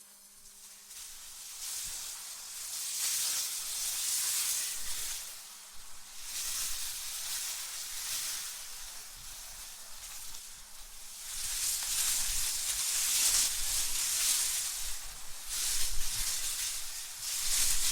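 Wind blowing in gusts, a hissing rush that swells and fades every few seconds, at its strongest about two-thirds of the way in.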